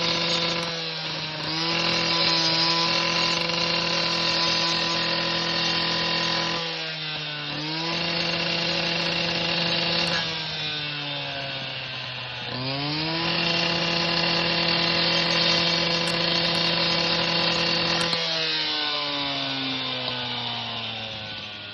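Angle grinder motor running with a steady high whine. It drops in pitch and spins back up several times, and winds down near the end.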